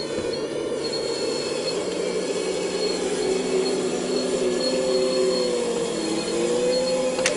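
Full-size excavator at work: its diesel engine runs steadily with a whine whose pitch wavers as the hydraulics load up, over a thin high squeal. A sharp clank comes near the end.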